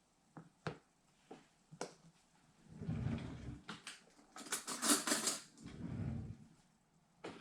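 Kitchen handling noise as seasoning is measured out with a teaspoon: a few light clicks and taps, then two spells of rustling and scraping in the middle, and another click near the end.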